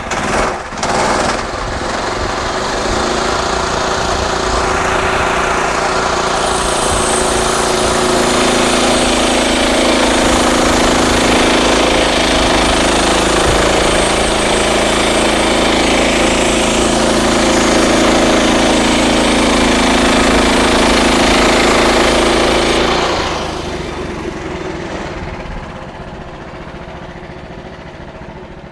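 Frontier OS31 bandsaw sawmill cutting through a red oak log, its engine running hard under load with the blade in the wood. About three-quarters of the way through, the level drops sharply as the cut finishes, and the mill runs on more quietly.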